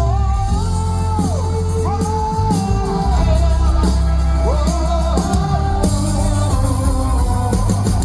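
Live gospel band music with a singer holding long notes that slide up and down in pitch, over a heavy, sustained bass.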